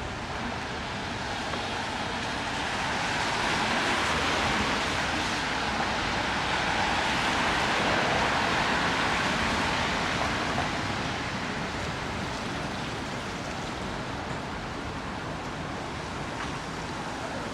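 Traffic hiss on a wet city street, swelling for several seconds as a vehicle passes on the wet road, then easing back.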